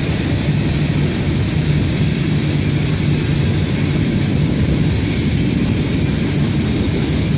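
Freight cars of a long CSX freight train rolling past: a steady low rumble of steel wheels on the rails, with an even hiss over it.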